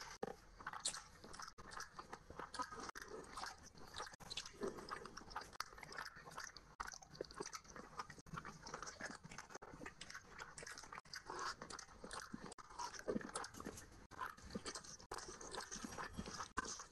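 Chewing and wet mouth sounds of a person eating rice and curry by hand: irregular smacks and clicks.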